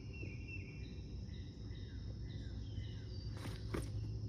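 Faint outdoor morning ambience: birds chirping in short falling notes over a steady insect buzz, with two faint knocks about three and a half seconds in.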